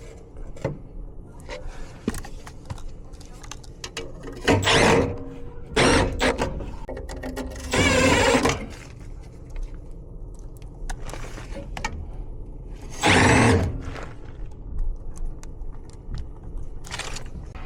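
Metal furnace parts being handled during an inducer motor replacement: several short bursts of scraping and clattering, the longest about eight seconds in, over a faint steady hum.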